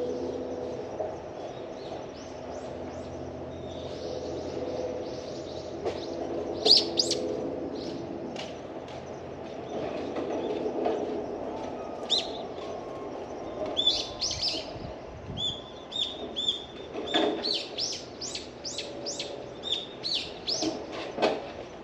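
Small birds chirping, with short high calls that come sparsely at first and then in a quick run of repeated chirps through the last third. Under them runs a steady low hum.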